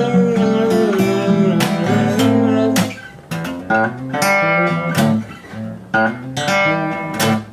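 Instrumental guitar passage, most likely acoustic guitar: about three seconds of strummed chords, then single picked notes with sharp attacks, each left to ring and fade.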